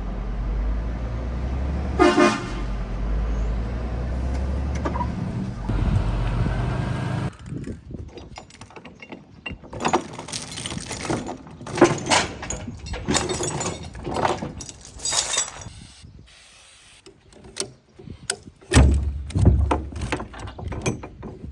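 A truck engine runs steadily, with a short horn toot about two seconds in. The engine sound stops at about seven seconds, and a series of sharp clicks and clatter follows.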